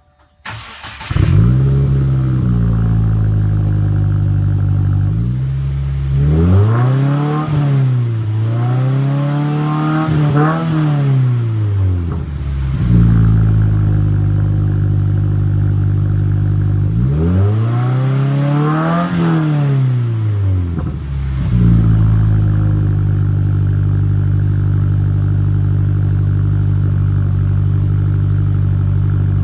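2015 Subaru WRX's turbocharged flat-four, breathing through a Nameless Performance cat-back exhaust with 5-inch mufflers and a resonated midpipe, warm-started: the starter cranks briefly and the engine catches into a steady idle. It is then revved three times, each rev a slow rise and fall lasting a couple of seconds, the first two close together, before settling back to idle.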